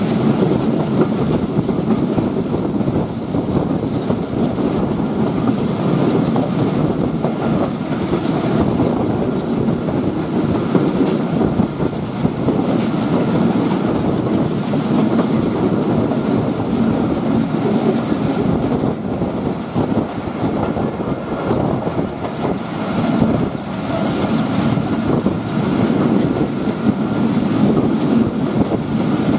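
Moving passenger train heard from an open door of a carriage: a loud, steady rumble of wheels running on the rails.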